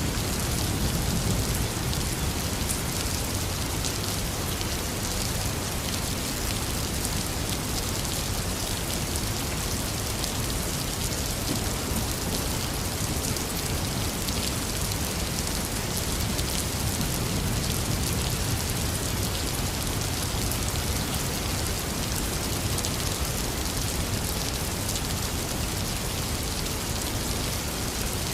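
Intense rain falling steadily, with two low rumbles of distant thunder, one near the start and one about two-thirds of the way through.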